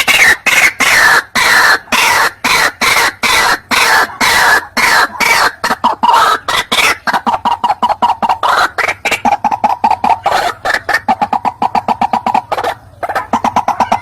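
White-breasted waterhen calling: an unbroken run of harsh, rapid croaking notes, several a second, from a recording made to lure the bird.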